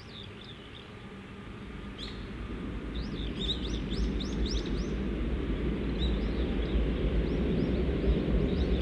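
Low rumble of a Seibu Railway electric train growing steadily louder as it approaches. Small birds chirp over it, with a quick run of rising chirps a couple of seconds in.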